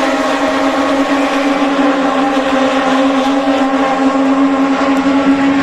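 Moto2 racing motorcycles running at high revs on the circuit, a loud, steady engine note held throughout.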